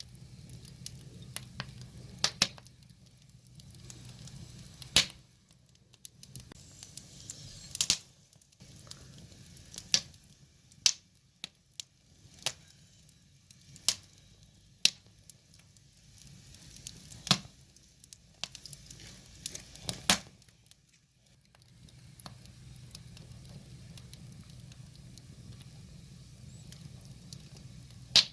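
Wood fire burning, crackling with sharp snaps and pops at irregular intervals of a second or two, over a faint steady low hiss.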